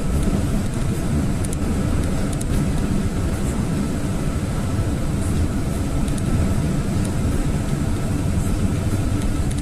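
Steady engine and road noise inside a GAZelle van's cab on the move, a continuous low rumble with no breaks.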